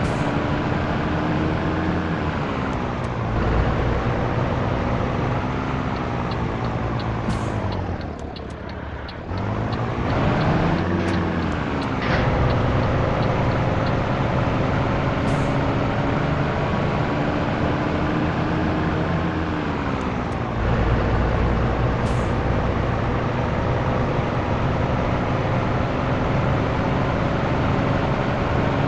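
Scania T113 truck's straight-six diesel engine pulling under load through the gears: the revs climb slowly in each gear and drop at gear changes about three, twelve and twenty seconds in. The revs and level fall off briefly around eight to ten seconds in, then pick up again.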